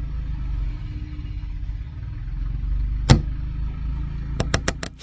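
Steady low vehicle rumble, with one sharp knock about three seconds in and a quick run of four clicks near the end.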